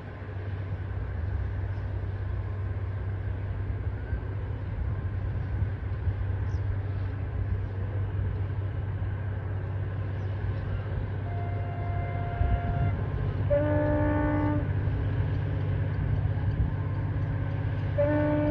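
Diesel locomotive running with a steady low drone, its horn sounding: one held note about two-thirds of the way through, then a short multi-note horn blast, and another blast at the very end.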